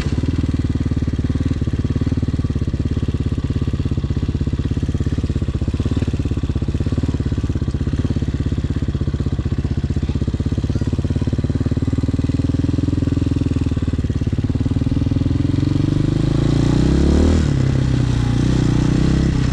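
Hawk 250 motorcycle engine running under way at low neighbourhood speed, a steady engine note with a noticeable rise in pitch near the end as it picks up revs.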